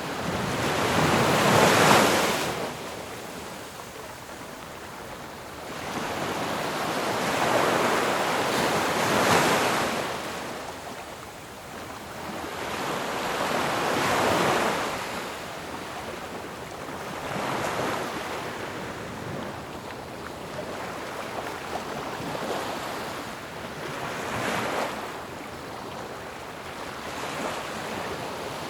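Ocean waves crashing one after another: about five rushing swells of surf that build and fade, the loudest about two seconds in.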